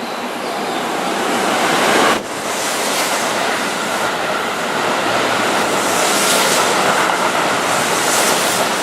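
Keihan 3000-series electric train running past, a loud steady rush of wheels on rails that builds, dips sharply about two seconds in, then carries on with a faint steady whine above it.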